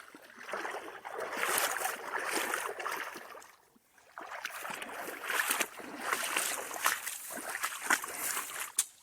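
Wading through a shallow creek: water sloshing and splashing around the boots in irregular surges, with a brief lull about three and a half seconds in.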